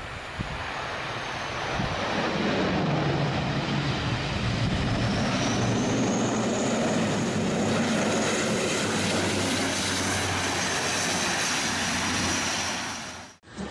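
An airliner's engines running loud during a landing in strong wind: a steady roar that builds over the first two seconds, with a high engine whine rising about five seconds in and then holding. It cuts off abruptly near the end.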